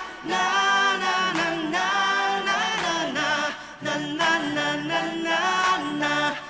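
Male pop singer singing a Chinese-language ballad in long, held and sliding notes, with other voices and soft accompaniment behind him.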